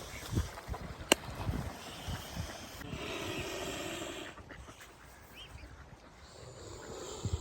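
Ducks calling now and then, with a longer harsh call about three seconds in and a sharp click about a second in.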